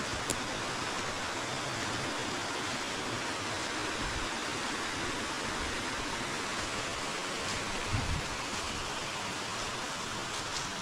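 A forest river flowing: a steady rush of moving water. A brief low thump comes about eight seconds in.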